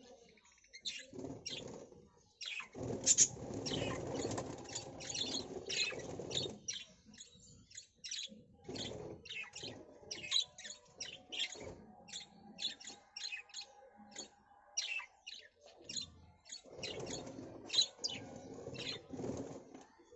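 Birds chirping: a rapid, steady run of short high chirps. Twice, for a few seconds each, a low rustling noise rises under the chirps.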